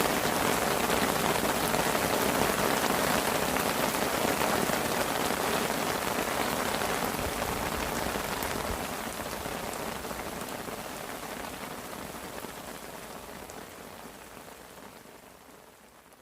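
Heavy rain falling on a fishing parasol overhead, a dense, even hiss of drops that fades out steadily over the last several seconds.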